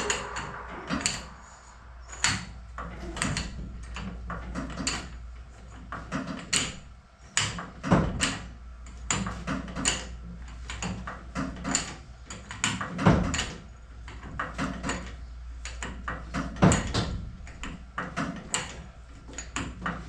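Irregular knocks and clanks of hands-on work with tools and parts, a few sharp ones standing out, over a steady low hum.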